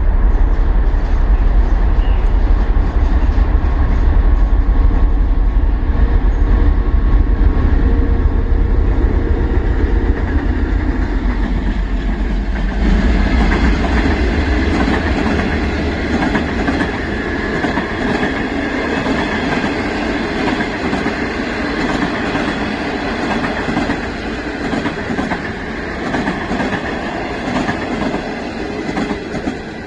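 DF11 diesel locomotive passing close by with a loud, deep engine rumble. About twelve seconds in, the rumble gives way to the passenger coaches rolling past, their wheels clattering over the rail joints and slowly fading.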